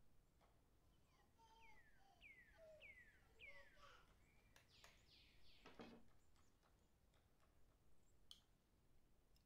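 Near silence with a faint bird call: four quick falling whistles in a row, followed by a few soft clicks.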